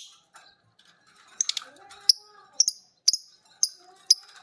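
Lovebirds calling in short, shrill chirps, about two a second from about a second and a half in, over a faint lower murmur.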